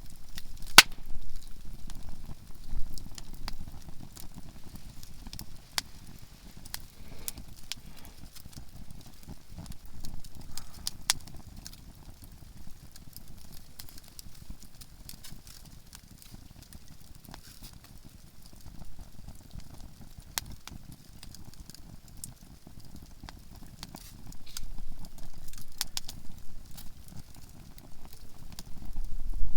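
Campfire of softwood (conifer) firewood crackling with irregular sharp pops over a low, steady burning rumble; one loud pop comes about a second in, and the crackling grows busier near the end.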